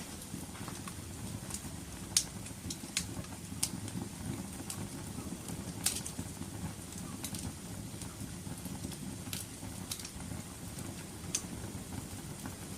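Wood fire burning in a fireplace: a steady low noise of the flames with sharp crackles and pops at irregular intervals, the loudest about two seconds in and again near six seconds.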